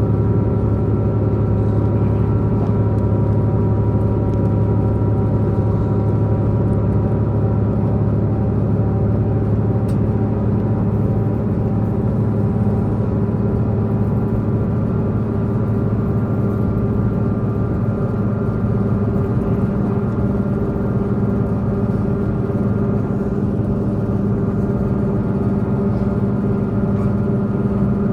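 Diesel engine of a diesel multiple-unit express train running under steady power, a constant engine drone with steady-pitched tones mixed with the rolling noise of wheels on rail, heard from inside the passenger car.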